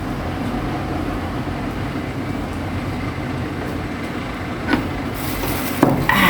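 Steady low background rumble, with a sharp click about three-quarters of the way through and a brief clatter of dishes and utensils near the end.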